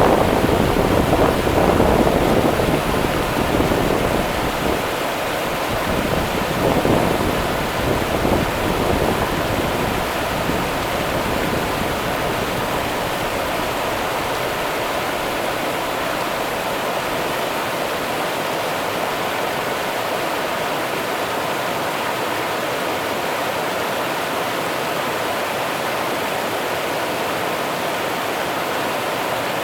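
Rio Grande river water running in a steady rush. For the first several seconds, low gusts of wind buffet the microphone, then die away, leaving only the even rush of the water.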